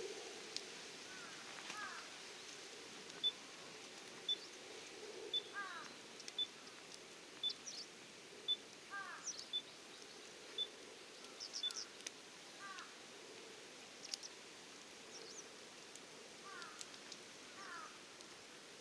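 Outdoor ambience with a wood campfire crackling in sharp, scattered pops. Short chirping calls repeat throughout, and about three seconds in a faint high beep starts sounding about once a second, nine times.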